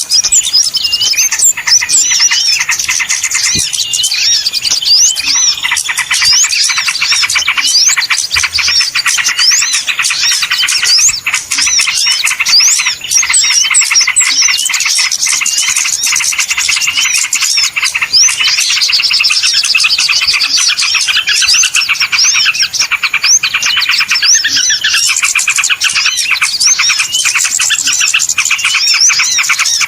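A dense, noisy chorus of many small birds chirping and twittering at once, with rapid short rising and falling notes overlapping without a break: a small-bird lure call recording.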